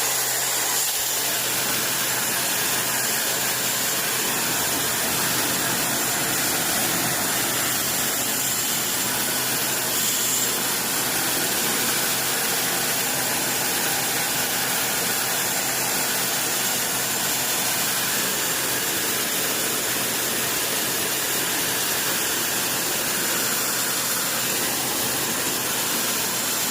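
Kärcher electric pressure washer running steadily, its motor hum under a continuous hiss of spray from the low-pressure air-conditioner cleaning nozzle gun.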